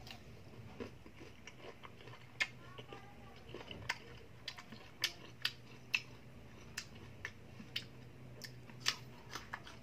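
A person biting and chewing crisp slices of unripe green Indian mango, with irregular sharp crunches, about two a second. A faint steady low hum runs underneath.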